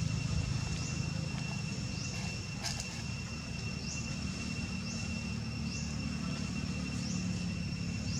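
Outdoor ambience: a steady low rumble under a thin, steady high whine, with a short rising chirp that repeats about once a second.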